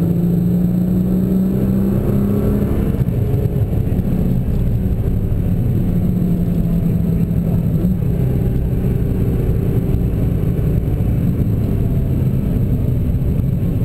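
Nissan GT-R's engine and road noise heard from inside the cabin on track, the car speeding up and then slowing.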